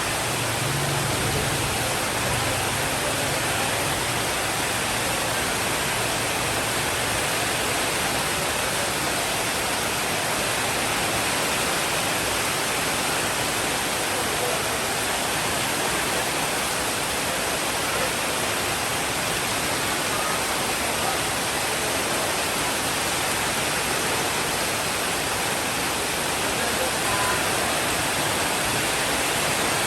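Steady, even hiss of heavy rainfall, with a faint low rumble under it for the first several seconds.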